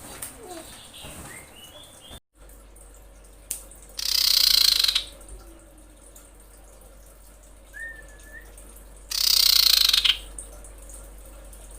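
Female common iora (cipoh) calls: two loud, harsh rasping screeches about a second long, some five seconds apart, with a short faint whistled note between them. This is the screaming call a female in breeding condition gives to call males.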